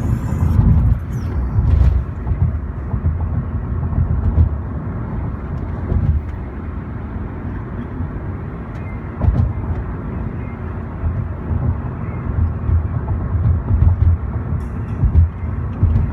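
Car travelling on a highway, heard from inside the cabin: a steady low road-and-engine rumble that swells and dips unevenly.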